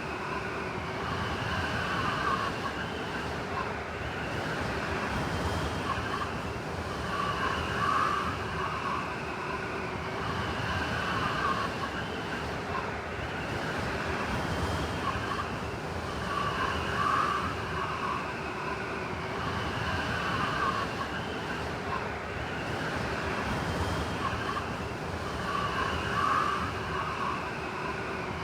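Howling blizzard wind: a steady rush with wavering, whistling tones that swell in gusts about every eight or nine seconds.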